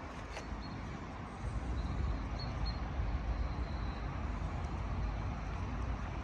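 Steady low rumble of a train running past, growing a little louder about a second and a half in.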